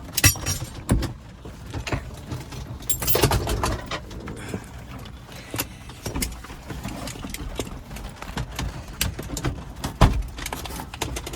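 Scattered clicks, knocks and rustling of things being handled in a small aircraft's cockpit over a low rumble, with the engine shut down; one sharper knock near the end.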